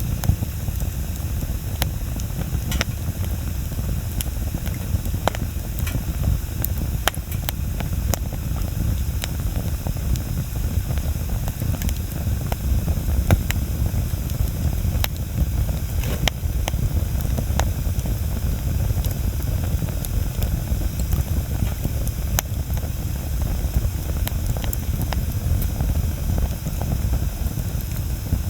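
Wood bonfire burning: a steady low rumble of flames with frequent sharp crackles and pops from the burning wood.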